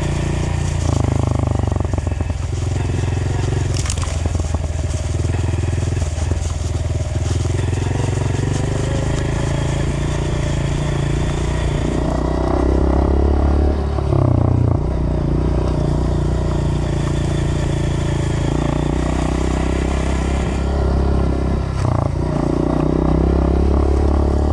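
Dirt bike engine running as the bike is ridden, its revs rising and falling several times, over constant rough noise.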